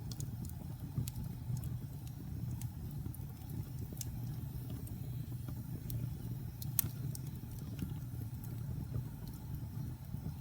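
Wood fire burning in a fireplace: a low steady rumble with scattered sharp crackles and pops, the loudest about seven seconds in.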